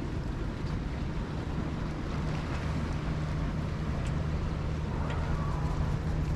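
A boat's motor running with a constant low hum, under an even hiss.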